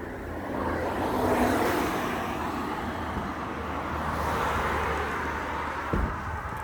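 Vehicle traffic noise swells and fades over a steady low hum, with one short thump near the end.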